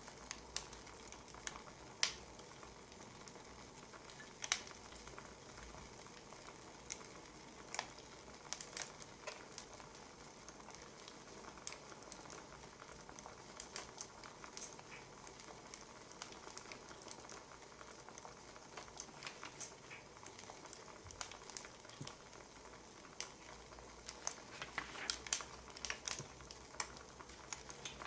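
Wood fire crackling: a steady soft hiss with irregular sharp pops and snaps, which come more thickly near the end.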